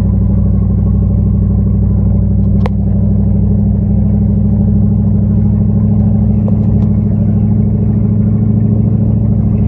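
Dodge Ram pickup truck's engine running steadily at a low, even pitch while the truck drives. A single sharp click comes a little under three seconds in.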